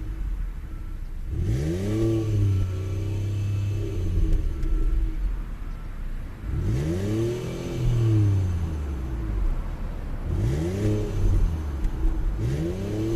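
2013 Ford Taurus Limited's 3.5-litre V6 idling and being revved four times, each rev rising and falling back to idle, the last near the end.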